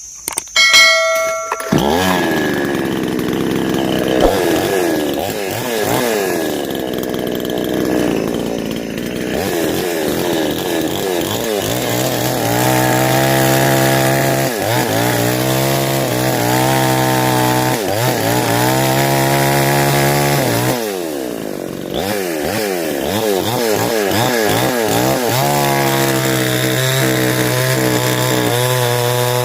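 A chainsaw starts with a short clatter, then runs, its engine pitch rising and falling with the throttle as it cuts wood. It holds high speed for several seconds in the middle, drops off about twenty seconds in, then revs up again.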